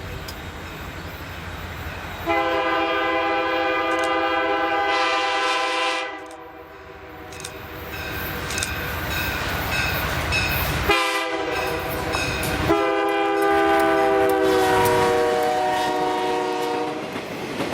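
Multi-chime air horn of an MLW/Alco six-axle diesel locomotive blowing the grade-crossing signal: long, long, short, long. The pitch sags slightly during the last long blast as the locomotive passes, and a low diesel engine rumble is heard before the horn starts.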